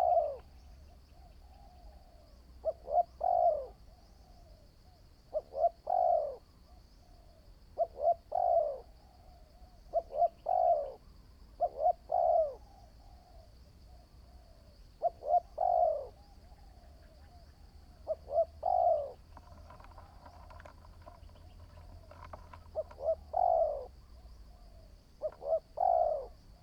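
Spotted dove cooing, repeating its short phrase of two or three falling notes about every two to three seconds.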